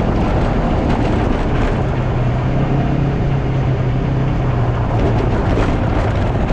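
Polaris General 4 1000 UTV's engine running steadily, the machine under way.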